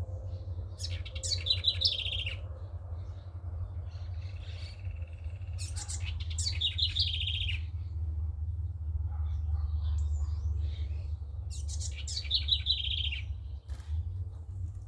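A songbird singing the same short phrase three times, about five to six seconds apart: each phrase is a quick high burst followed by a falling run of clear notes. A steady low rumble runs underneath.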